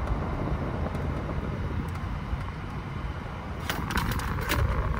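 Car air-conditioning running with the blower turned up: a steady rush of air and a low rumble from the freshly recharged system, which is blowing cold. A few light clicks come near the end.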